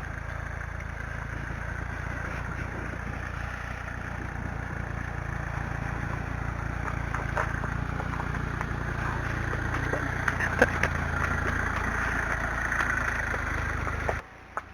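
Motor vehicle engine running steadily, slowly growing louder as it approaches, under a hiss of rushing water that swells in the second half, with a few sharp clicks. It all drops off suddenly near the end.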